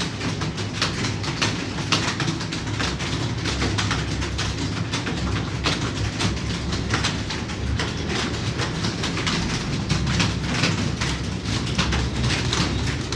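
Computer keyboard typing: a fast, continuous clatter of key clicks over a steady low rumble.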